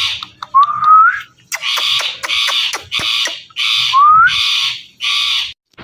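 Indian ringneck parrot screeching: a string of harsh squawks about two a second, with two short rising whistles, one about half a second in and one about four seconds in.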